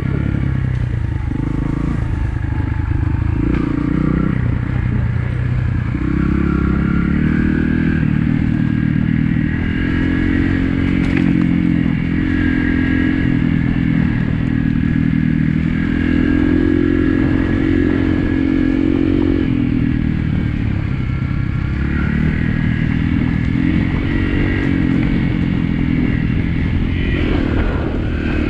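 Trail motorcycle engine running under load on a dirt forest-road hill climb, its revs rising and falling several times.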